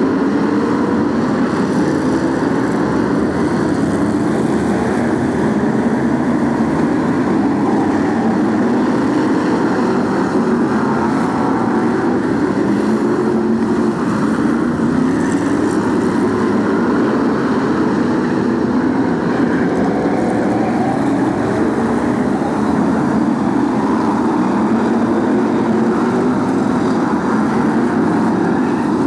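Several BRISCA F1 stock cars' V8 engines racing together: a dense, continuous engine noise whose pitch keeps rising and falling as the cars accelerate and lift off.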